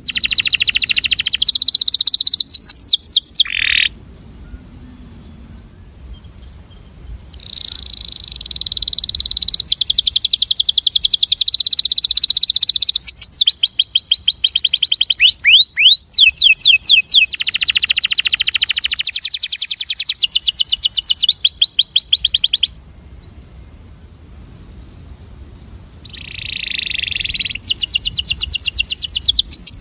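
A breeding male domestic canary singing its courtship (attraction) song: long phrases of rapid, high trills of repeated notes, switching from one trill to the next, with two short pauses. A faint steady high-pitched tone runs underneath.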